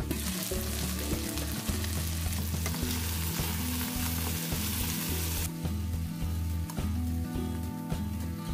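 Chicken pieces and onions sizzling in hot oil in a wok while being stirred with a plastic spatula. The sizzle is loud at first and drops off suddenly about five and a half seconds in.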